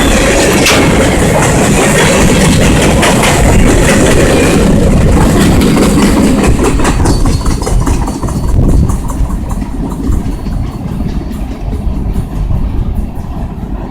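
Canadian National freight train rolling past: a loud steady rumble, then a quick run of wheel clicks over the rail joints as the sound fades away in the second half.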